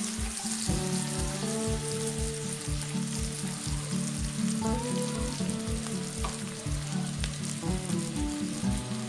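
Sliced onion, chillies and garlic sizzling in hot oil in a wok as the spice base is sautéed, under background music with a steady beat.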